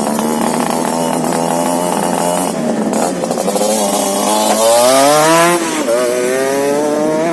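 Suzuki RGR 150's single-cylinder two-stroke engine through an aftermarket underslung side exhaust, running steadily and then revved: the pitch climbs about halfway through to its loudest peak, drops back, then climbs again near the end.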